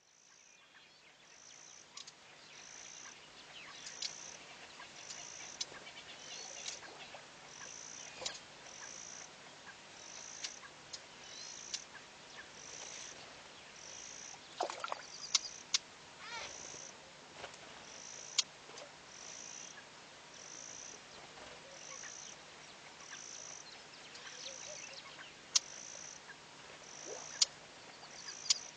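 Wild animal sounds: a short high note repeating evenly about every second, with scattered sharp bird chirps and clicks over a faint steady low hum.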